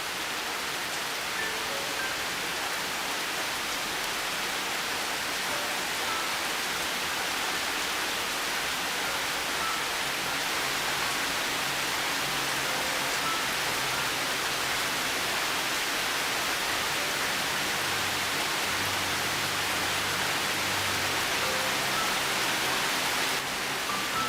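Steady rain hiss mixed with soft, slow piano music: sparse single notes over the rain, with low held notes coming in about ten seconds in.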